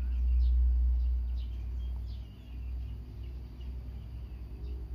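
Faint birds chirping in short calls scattered throughout, over a low rumble that is loudest in the first two seconds and then flutters.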